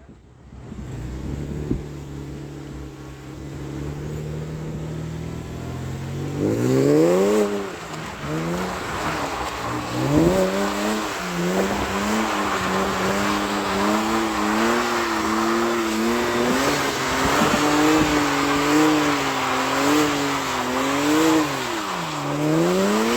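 Straight-piped straight-six engine of a BMW E92 328i running steadily at low revs, then revving up and down repeatedly from about six seconds in as the throttle is worked in a drift. A rising hiss of tyre noise runs under the engine.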